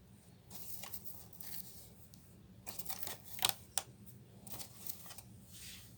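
Faint handling noises: scattered soft clicks, light knocks and rustles, with the vacuum's motor not running.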